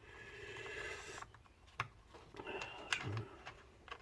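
Small parts of an old electric hand grinder being handled and fitted: a short scraping rush for about the first second, then a few sharp clicks.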